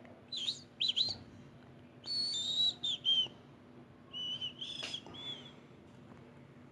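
Bird chirping: short, high-pitched calls in three groups, some sliding up and down in pitch, over a faint steady hum.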